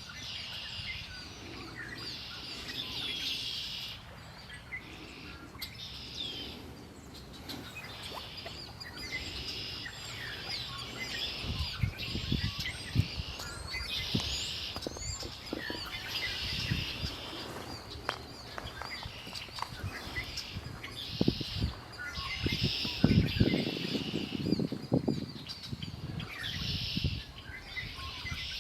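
Several songbirds singing, with short high phrases repeating every second or two and overlapping. Low rumbling thumps break in about twelve seconds in and again around twenty-two to twenty-five seconds in, loudest of all.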